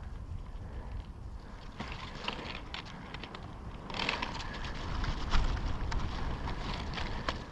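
Wind rumbling on a body-worn microphone. Irregular rustling and clicking start about two seconds in and grow denser and louder about halfway through.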